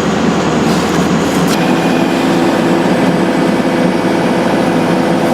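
Hydraulic excavator's diesel engine running steadily under load, its note shifting about a second and a half in.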